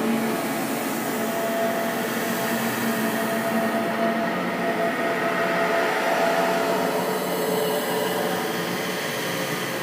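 Steady, eerie rushing drone with a few faint held tones, a horror ambience sound effect.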